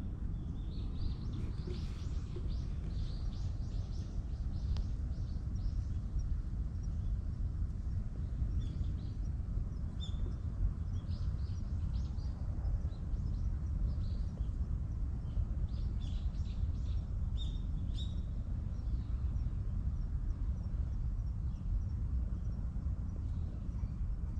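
Small birds chirping in scattered short calls, busiest in the first few seconds and again in the middle, over a steady low outdoor rumble.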